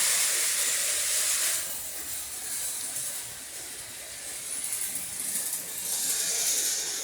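Model steam locomotive running with a steady steam hiss. The hiss is loud for about the first second and a half, then softer, picking up again a little near the end.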